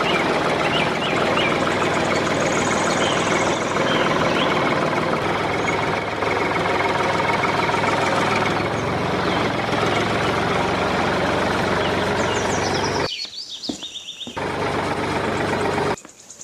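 A small motor running steadily, dropping away abruptly about thirteen seconds in, coming back briefly and then cutting off near the end.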